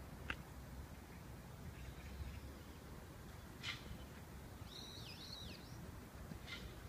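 Birds calling faintly over a low outdoor rumble: a few short, sharp chips, and a quick run of about three arched, whistled notes about five seconds in.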